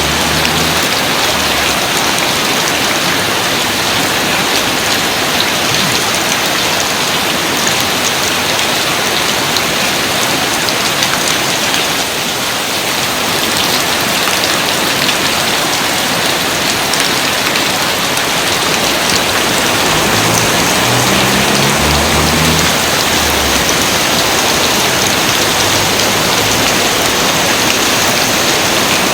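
Steady rain falling, a dense, even hiss of countless drops.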